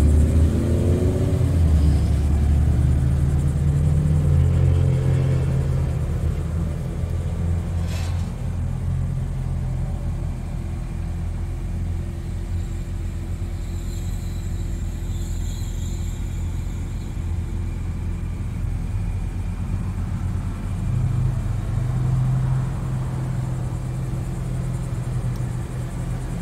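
BMW M3 Competition's twin-turbo inline-six idling with a steady low rumble, a little louder for the first few seconds. A single sharp click about eight seconds in.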